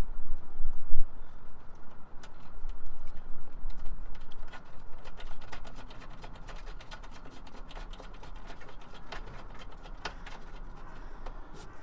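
Hands-on work with hand tools on a nut under the bonnet: rubbing and handling noise with a low rumble at first, then from about halfway a run of small, irregular metallic clicks and taps.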